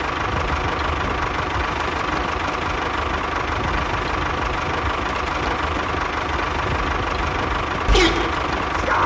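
A small engine running steadily with a low rumble and a thin steady whine. About eight seconds in there is a sudden thump, followed by a short falling squeal.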